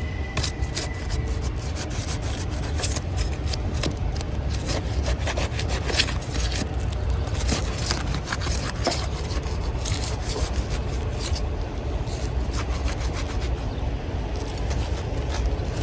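Asphalt roof shingles being pried up and scraped: a continuous run of rough scraping and crackling over a steady low rumble.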